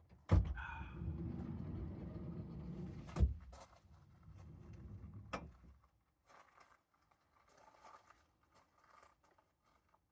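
A vehicle door unlatched with a sharp click, followed by about three seconds of low rumbling movement, then slammed shut about three seconds in. A couple of lighter clicks and faint rustling follow.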